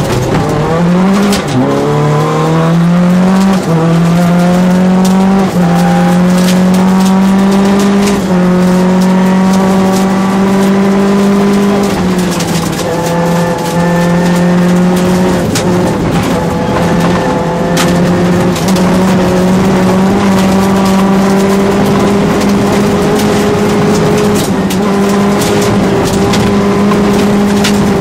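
Rally car engine heard from inside the cabin, accelerating hard through four quick upshifts, then held at high revs flat out, with brief lifts about twelve and sixteen seconds in.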